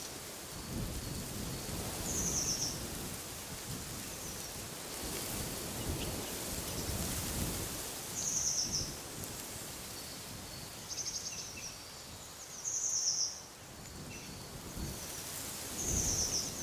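Wind blowing in gusts with a low rumble, while a small bird gives short high chirps every few seconds, one of them a quick buzzy trill.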